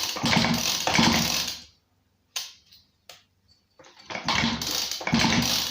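Fieldmann FZP petrol chainsaw being cranked over on its pull-starter to check the ignition coil for spark, in two spells with a pause between holding two sharp clicks.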